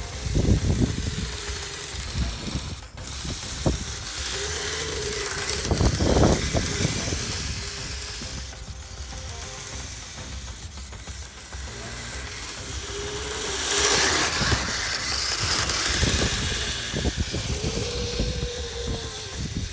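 Radio-controlled tracked snow vehicle driving, its electric motor whining up and down several times over the clatter of its 3D-printed plastic tracks and a steady hiss.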